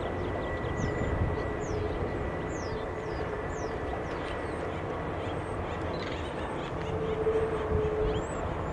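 Union Pacific autorack freight train rolling by on the rails, a steady rumble of the cars with a thin steady whine over it. Small birds chirp in short falling notes throughout.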